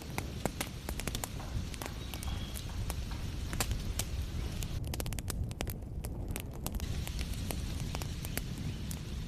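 Wood fire crackling in a fireplace: many sharp pops and snaps over a steady low rumble, with a quick run of pops about five seconds in.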